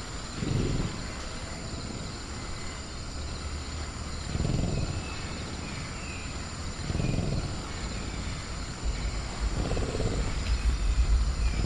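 Designed velociraptor sound effect: four short, low growls a few seconds apart, over a steady high cricket drone and faint chirps, with a low rumble building near the end.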